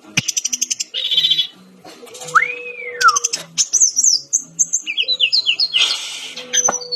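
Brown-chested jungle flycatcher song: a fast, varied run of trills, chirps and short whistles. About two and a half seconds in comes one long whistle that rises and then falls, and a sharp click sounds near the start and again near the end.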